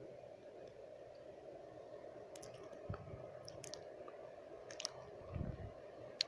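Close-miked wet mouth sounds: scattered sharp tongue and lip clicks, about half a dozen, sparse at first and strongest near the end, over a steady low background noise.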